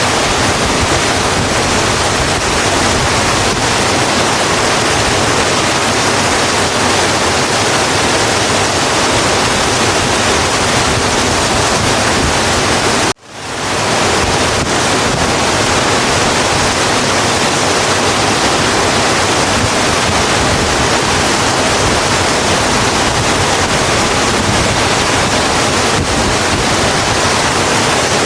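Steady rain, a dense even hiss with no separate drops standing out. About thirteen seconds in it cuts out for a moment and fades back in.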